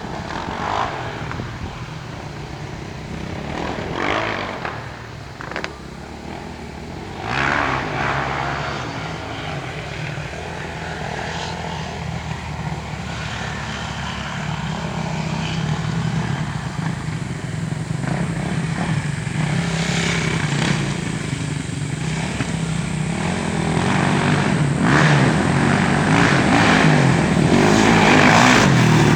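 Dirt bike engine running as the bike is ridden, with noisy wind-like rushes over it, growing louder over the last several seconds.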